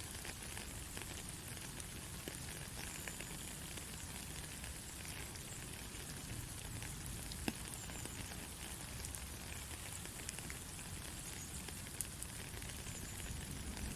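Gentle steady rain, with scattered single drops ticking through it and a couple of sharper drops about halfway and near the end.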